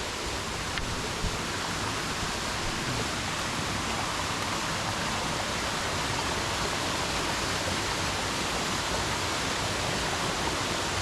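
Rushing water of a stream at the top of a waterfall, a steady even rush.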